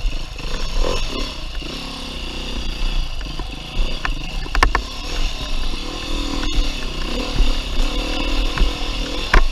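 2019 Beta 390 RR-S single-cylinder four-stroke dirt bike engine running under rising and falling throttle while being ridden, over a steady low rumble. There are a few sharp clacks about halfway through and near the end.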